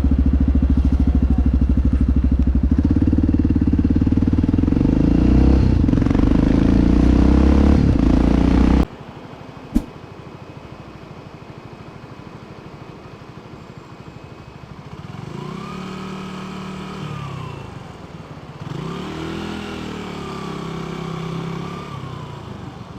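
Motorcycle engine running loudly and steadily, cut off abruptly about nine seconds in. A sharp click follows a second later. In the quieter second half, engine pitch twice rises, holds and falls again.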